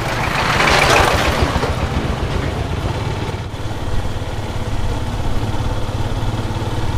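A small engine running close by, a steady low pulsing hum under a wash of noise, loudest about a second in.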